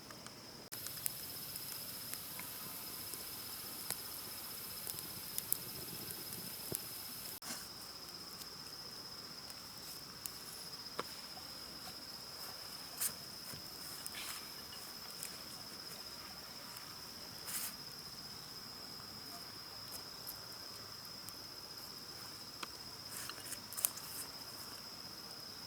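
Insects droning steadily in one continuous high trill, with a second, higher insect hiss over it for the first seven or so seconds. Scattered light clicks and taps come through it.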